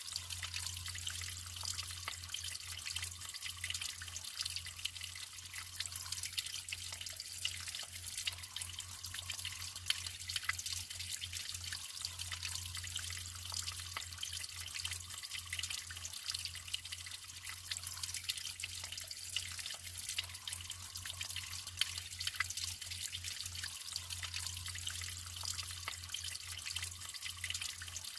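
Natural running water trickling and splashing steadily, full of small dripping drops, with a low fluttering rumble underneath.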